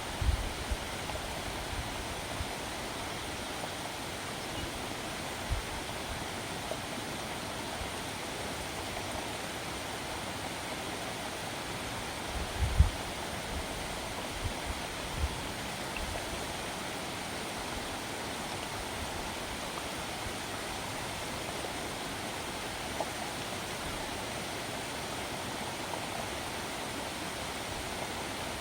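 Steady rushing outdoor ambience at a lake, with a few soft low thumps, the strongest about thirteen seconds in.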